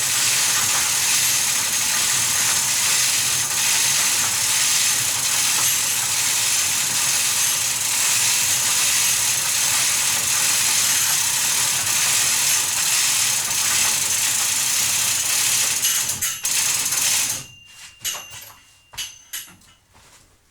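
A steady, loud hiss that stops suddenly about seventeen seconds in, followed by a few sharp mechanical clicks and rattles.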